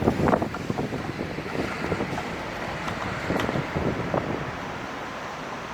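Strong gusty wind buffeting the microphone in a windstorm, loudest in gusts near the start, then easing.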